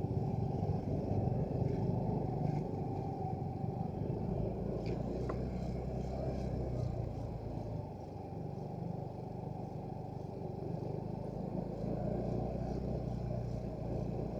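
Motorcycle engine running steadily at low riding speed, heard muffled with almost nothing above a low hum.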